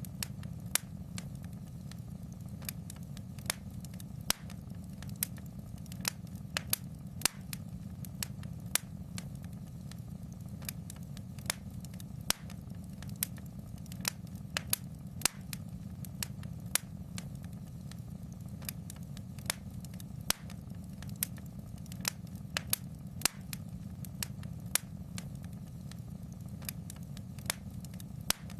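Wood fire crackling in a fireplace: sharp, irregular pops and snaps, about one or two a second, over a steady low rumble.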